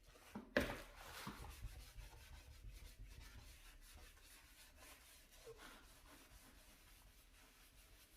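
Scrubbing on a dirty stovetop: a run of rapid rubbing strokes that slowly grow fainter. A single sharp knock comes about half a second in.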